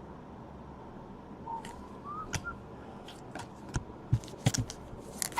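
A person softly whistling a few short rising notes, then sharp clicks and crinkles of trading cards and foil pack wrappers being handled, getting busier toward the end.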